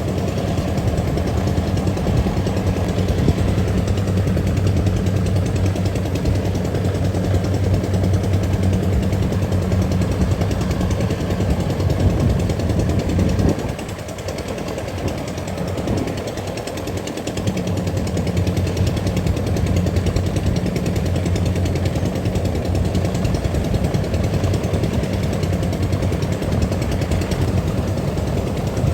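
Rice combine harvester engine running under load with a steady hum. The sound falls away for a few seconds about halfway through, then comes back.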